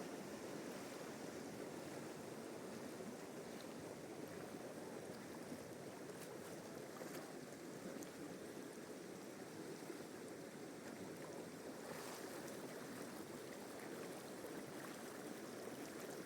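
Steady rush of a fast mountain river, an even, unbroken water noise.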